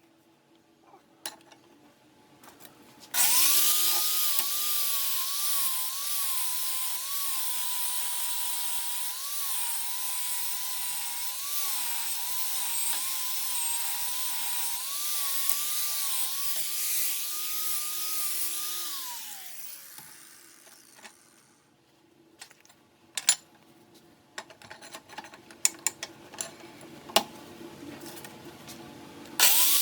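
Angle grinder grinding steel, its motor whine dipping and wavering in pitch as it is pressed into the work. About 19 seconds in it is let off and winds down with a falling whine, followed by scattered light taps and clicks, and it starts up again at the very end.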